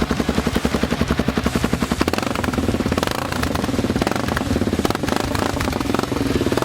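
Motorcycle engine running, with a fast, even pulsing for the first two seconds that settles into a steadier sound.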